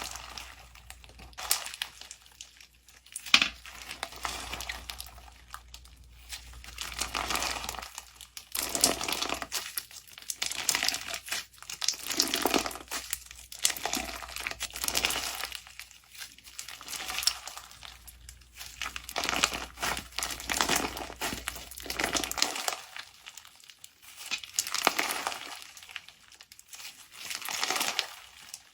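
Slime being squeezed, pressed and pulled apart by hand, giving a series of crackly, sticky squishes every second or two, with one sharp snap about three seconds in.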